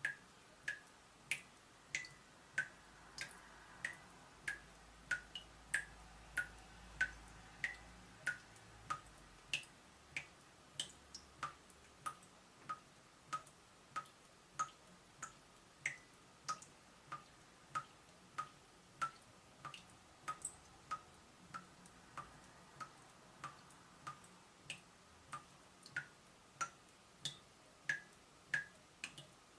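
Leaking tap dripping steadily: single water drops plinking into water about three times every two seconds, each drop a short ping whose pitch varies from drop to drop.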